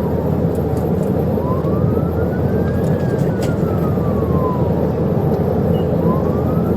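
Police siren wailing in slow rising and falling sweeps, heard from inside a car travelling at high speed over steady road and engine noise.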